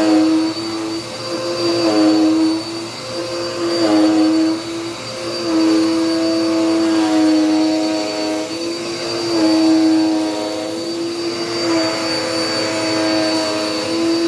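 Dirt Devil Power Max vacuum cleaner running while vacuuming: a steady motor whine with a thin high tone above it. The whine swells and dips in loudness about every couple of seconds at first, then evens out.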